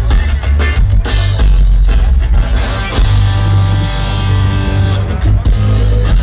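Rock band playing loud live through a festival sound system: electric guitar, bass and drums, with drum hits in the first half and sustained guitar chords ringing from about halfway.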